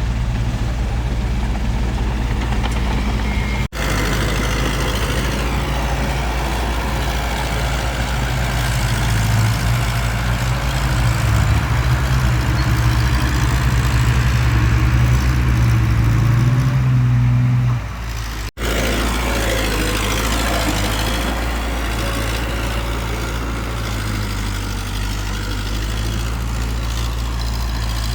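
Heavy diesel engine of earthmoving machinery running steadily, louder for several seconds in the middle, with two brief dropouts where the sound cuts.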